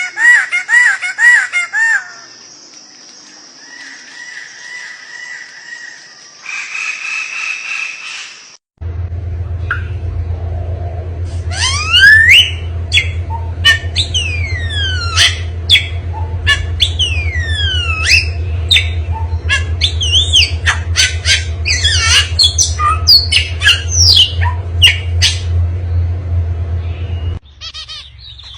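Different birds calling in turn: first a quick run of about six squawking notes, then quieter calls, then a long stretch of rapid chirps and falling whistles over a steady low hum that stops abruptly near the end.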